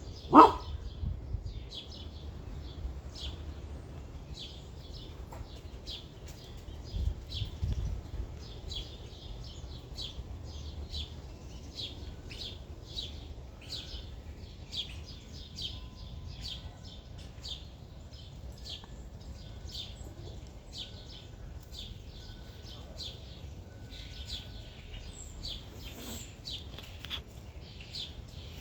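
Small birds chirping in short, high, repeated notes, a few a second, over a low rumble. One brief loud sound comes just after the start.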